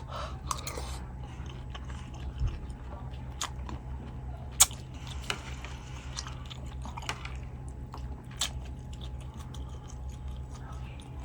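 A person chewing and eating close to the microphone: irregular wet clicks and smacks of the mouth, with one sharp louder click about four and a half seconds in. A steady low hum runs underneath.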